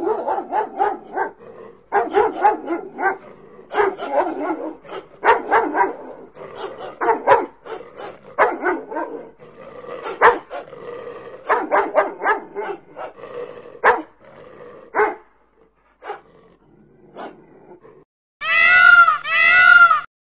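Animal sound effect: many short cat and dog cries in quick clusters, thinning to a few scattered ones. Near the end a different warbling sound starts.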